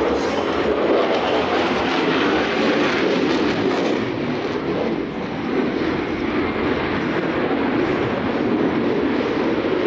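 Jet noise of a Su-30MKM fighter's twin turbofans in flight, a loud, steady rushing rumble that dips briefly about five seconds in.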